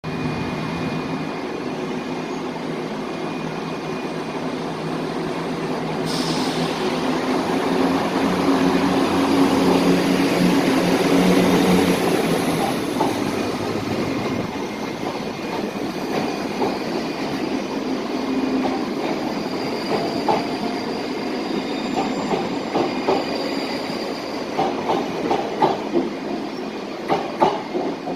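Train running on the rails: a steady engine hum that swells about eight seconds in and drops away after about thirteen seconds, leaving a rumble with a run of sharp clicks near the end.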